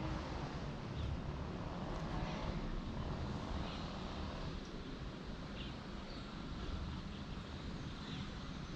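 Steady outdoor background noise, mostly a low rumble, with a few faint high chirps scattered throughout.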